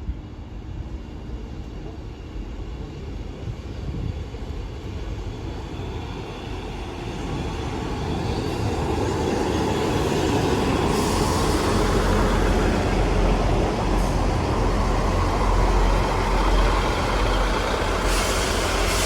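Two coupled Class 158 diesel multiple units pulling into the station: the rumble of engines and wheels grows louder over the first half and stays loud as the train draws alongside. There are hissing bursts from the air brakes in the second half.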